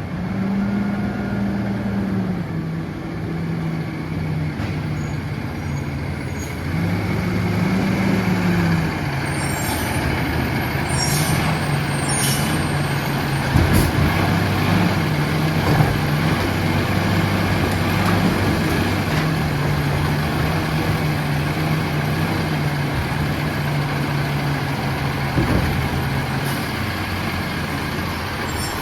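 Diesel engine of a garbage truck running, its pitch rising and falling several times as it revs. Sharp metallic clanks and rattles come in the middle.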